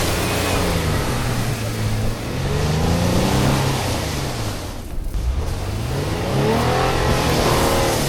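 Off-road vehicle's engine revving up and down a few times, its pitch climbing and falling, over a steady rushing noise.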